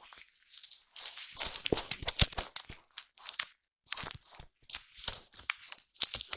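Foam brushed against a microphone up close: dense scratchy crackling in quick strokes, starting about a second in, with a short pause about three and a half seconds in.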